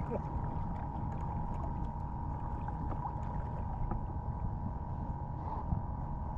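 Steady low rumble of wind and water noise around a kayak, with a faint steady high tone running over it and a few light ticks.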